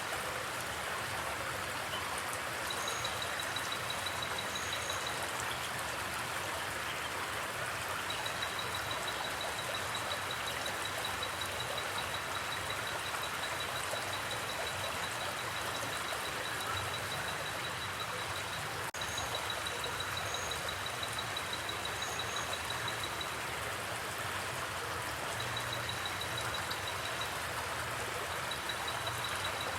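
Steady rush of flowing creek water. Over it a high, fast-pulsing trill comes and goes several times, with a few short, higher chirps now and then.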